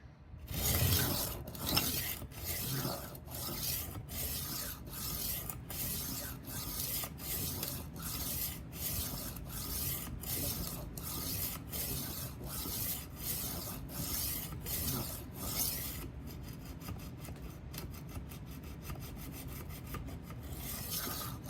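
Rolling knife sharpener's abrasive disc rasping along the steel edge of a 12-inch Henckels chef knife in steady back-and-forth strokes, about two a second, raising a burr on the first side. The strokes turn fainter and finer about three-quarters of the way through.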